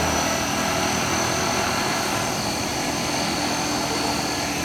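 Small electric motors of a homemade cardboard RC helicopter spinning its rotor, a steady whirring with a high whine that rises slightly in pitch.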